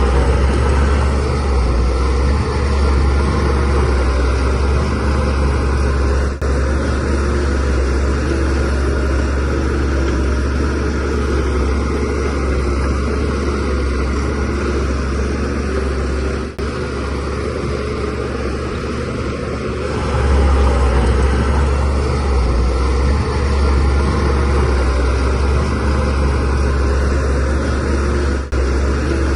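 DH17C3 bulldozer's diesel engine running steadily as a deep, continuous drone while the machine works soil, swelling a little in level about twenty seconds in.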